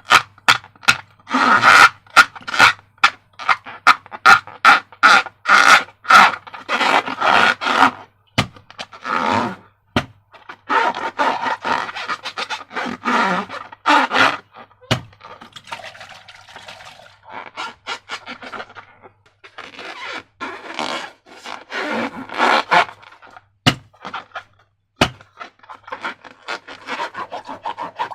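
Slime being squished and worked by hand: a quick run of short, sticky squelches and pops, about two or three a second, giving way after several seconds to longer, slower squishing and smearing sounds.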